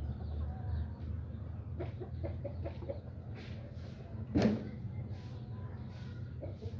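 Chickens clucking, a quick run of short clucks about two seconds in, over a steady low rumble. A single sharp knock about halfway through is the loudest sound.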